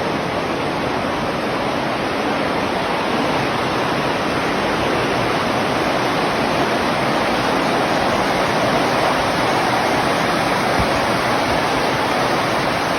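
Rushing water: a loud, steady, even roar of flowing or falling water.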